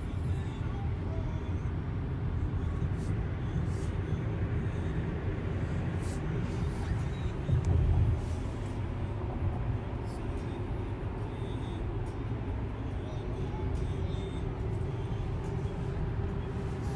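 Steady road and tyre noise from a Tesla electric car driving in traffic, a low rumble with no engine note. About eight seconds in, a brief louder low rumble swells and fades.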